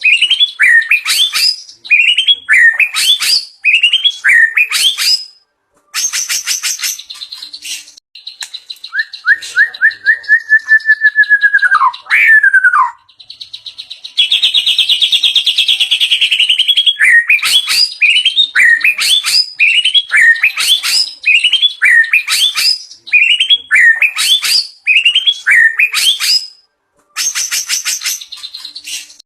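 White-rumped shama (murai batu) singing a varied, loud song that runs through its repertoire of learned phrases. It repeats quick chirp phrases over and over, with a run of short notes ending in a falling sweep about ten seconds in and a buzzy trill just after. There are brief pauses between phrases.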